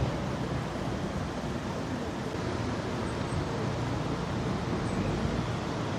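Steady road and wind noise from a car on the move, with a low engine hum underneath.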